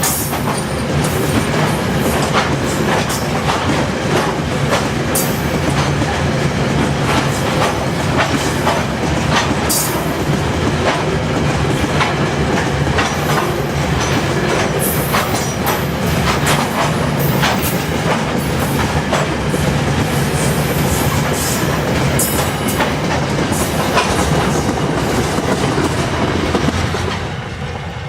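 Loaded wheat wagons of a freight train rolling past, wheels knocking over rail joints in a steady clickety-clack; the sound falls away near the end.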